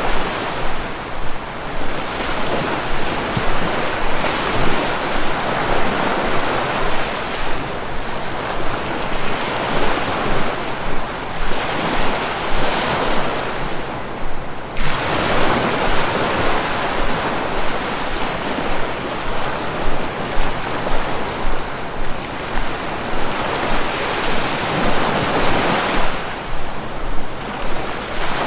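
Sea waves breaking and washing on the shore, swelling and ebbing every few seconds, with wind in the background.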